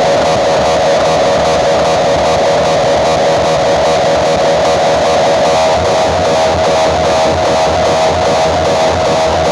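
Loud music with distorted electric guitar and pulsing bass, blasted through large outdoor-cinema sound-system speakers.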